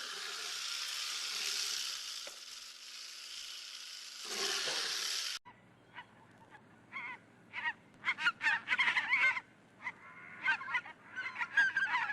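Steady hiss-like noise that cuts off suddenly about five seconds in, followed by a rapid run of short, honking bird calls that grows louder toward the end.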